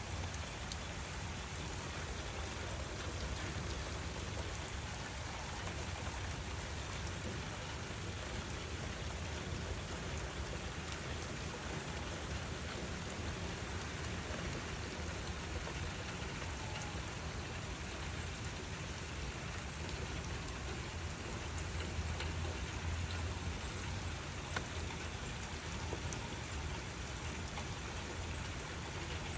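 Steady rain falling, with scattered sharper drop ticks over an even hiss and a low rumble underneath that swells slightly about three-quarters of the way through.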